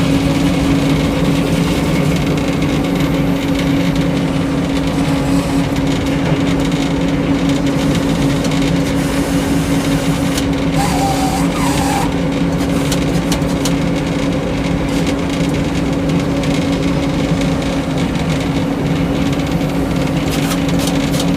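Engine powering a Frick sawmill running steadily at a constant speed, with faint crackling in the middle and near the end.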